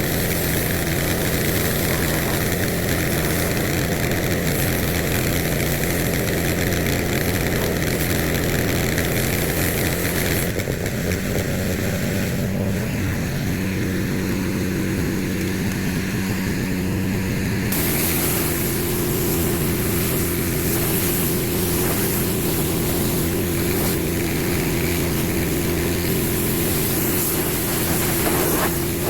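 Husqvarna pressure washer running steadily, spraying, its sound shifting about ten seconds in and again about eighteen seconds in.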